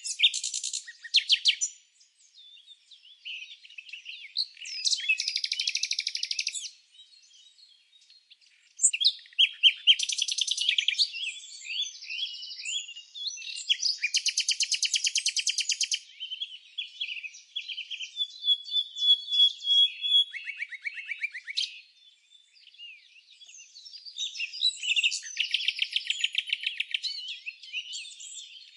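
Several songbirds singing and chirping in bouts, with fast buzzy trills and short high twitters overlapping, and brief lulls between bouts.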